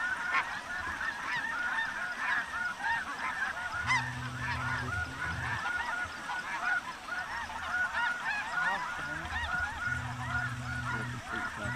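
A large flock of snow geese calling, with many short high calls overlapping into a continuous din.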